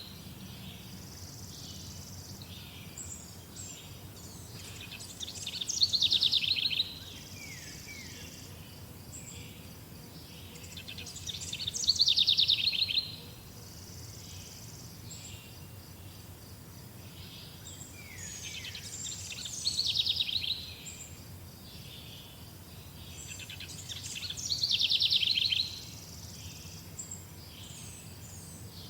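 A songbird repeating a short, fast trill that falls in pitch, about once every six seconds, with softer high chirps from other birds between the phrases. A faint steady low hum runs underneath.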